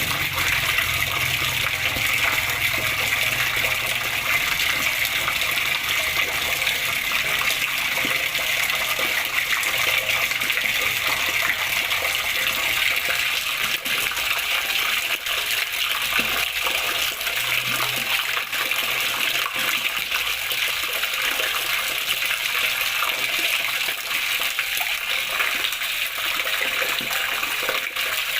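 Running water splashing and babbling steadily, an even rush with no breaks.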